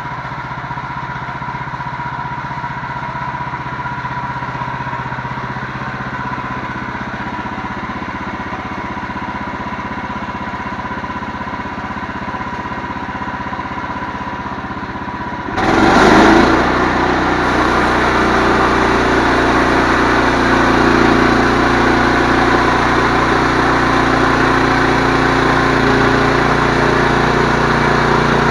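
An engine running steadily; about fifteen seconds in it suddenly gets louder and harder-sounding, as under higher throttle or load, and holds there.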